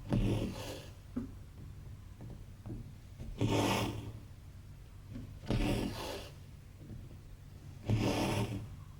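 Embroidery floss drawn through 14-count cross-stitch fabric, a short rasping rub four times, about every two seconds, as each stitch is pulled tight.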